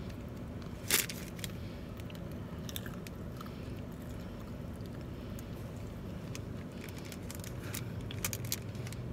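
Close-up eating of a pretzel-wrapped hot dog with a hard pretzel crust: a sharp bite about a second in, then chewing with small wet mouth clicks. Under it runs the steady low hum of the car's engine and air conditioning.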